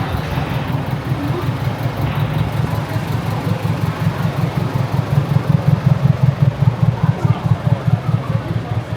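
A vehicle engine running close by, a steady low rumble that grows louder and pulses rapidly about halfway through.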